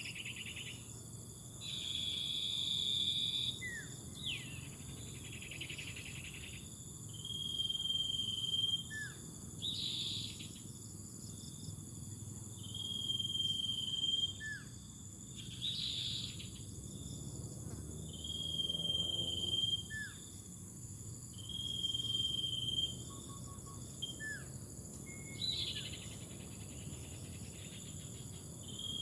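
A steady, high-pitched insect drone, typical of crickets or cicadas. Over it, a call repeats every few seconds: a held tone or buzz about a second long, each followed by a short falling chirp.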